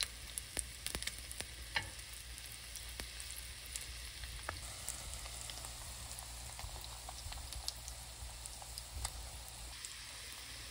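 Egg-battered angelica tree shoots (dureup-jeon) sizzling steadily in hot oil in a nonstick frying pan, with scattered crackles and pops. A few sharp clicks in the first couple of seconds as metal tongs turn the pieces.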